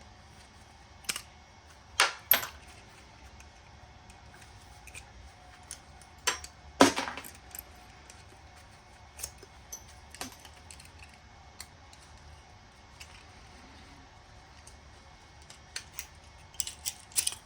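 Small metal parts of a furnace burner assembly being handled and taken apart: scattered clinks and knocks. The loudest come about two seconds in and around seven seconds, with a quick cluster near the end.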